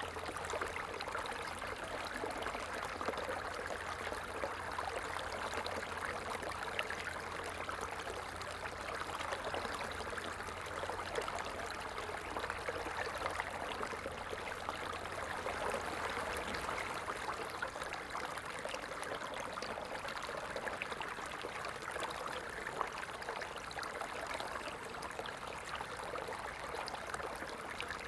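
Stream of water flowing and trickling steadily, an even rushing with small splashes.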